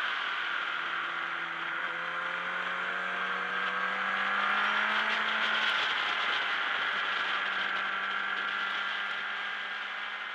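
Racing motorcycle engine running hard at speed, heard from a camera on its own fairing over a steady wind rush. The engine note climbs slowly through the first half as the bike accelerates, then holds steadier.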